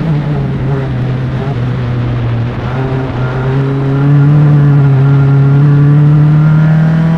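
Single-seater race car's engine heard onboard, pulling under steady acceleration with its pitch climbing slowly; it gets a little louder about four seconds in.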